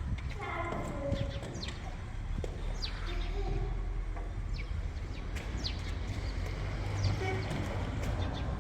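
Small birds chirping, short high calls that sweep downward, repeated every second or so over a steady low rumble. A brief pitched call comes about half a second in.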